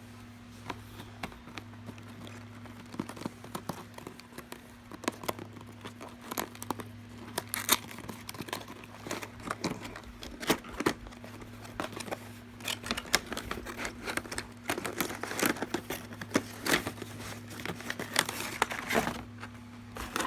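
Packaging of a Thomas Wooden Railway 5-car gift pack being handled and opened: irregular crinkling and tearing, sparse at first and busier from about a third of the way in.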